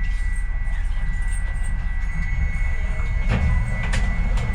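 Docklands Light Railway train heard from inside the carriage, running with a steady low rumble as it comes into a station, under a steady high whine. Two sharp knocks from the wheels come a little over three and four seconds in.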